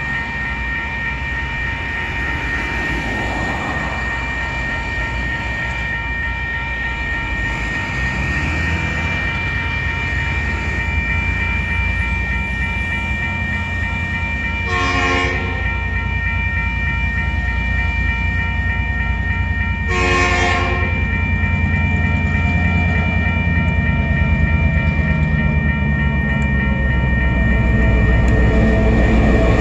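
Level crossing warning bells ring steadily while the rumble of the approaching DQ-class diesel locomotive grows louder. Its horn sounds twice: a short blast about halfway through and a longer one about five seconds later.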